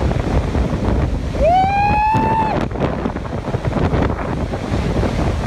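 Hurricane wind buffeting the microphone in a steady loud rush. About a second and a half in, a person lets out one long shout that rises and then holds for about a second.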